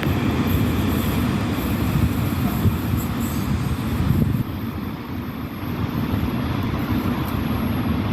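A train running past on the rails, a steady rumble of wheels and running gear. It gets a little quieter and duller about four and a half seconds in.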